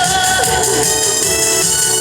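Live song with band backing played loud over PA speakers. A held, wavering sung note ends about half a second in, and the backing music carries on.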